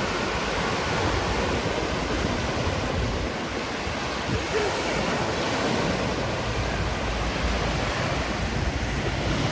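Surf washing onto a sandy beach, a steady rush of waves.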